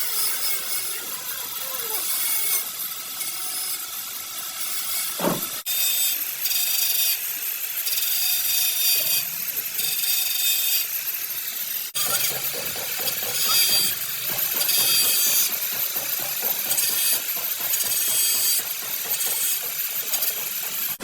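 Electric power tool working on car body sheet metal, a continuous high, hissy abrasive grinding sound with faint steady whine tones. It breaks off abruptly about six and twelve seconds in and resumes at once.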